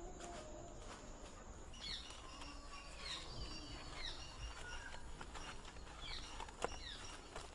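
Faint bird calls in a woodland background: short, high, falling chirps repeated over and over, beginning about two seconds in, over a steady low hiss, with one sharp click near the end.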